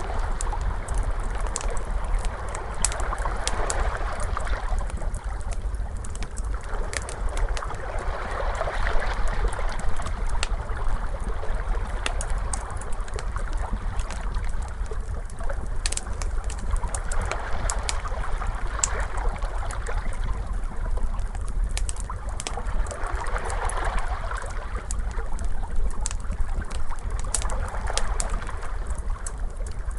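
Ocean waves washing in and out, swelling every four to five seconds, with a wood fire crackling over them in scattered sharp pops.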